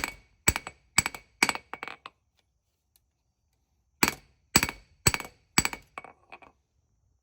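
Hand hammer striking hot spring steel on an anvil, about two blows a second, the anvil ringing after each blow. A run of blows eases into lighter taps; after a pause of about two seconds come four more heavy blows and a few light taps. This is the forging of a small knife blade's profile.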